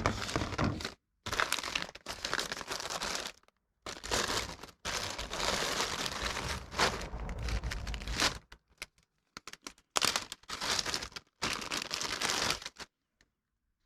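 Plastic packaging crinkling and rustling in irregular bursts as small engine parts are dug out and unwrapped.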